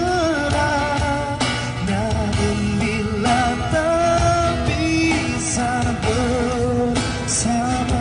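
A man's voice singing a melodic song with held, wavering notes over backing music with guitar and a steady beat.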